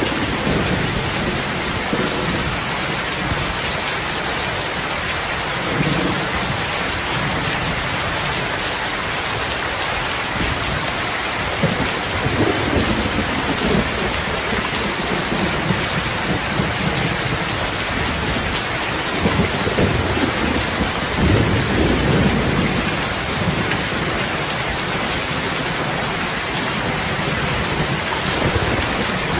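Heavy, steady rain, with low thunder rumbles swelling and fading several times, most strongly a little under halfway in and again about two-thirds in.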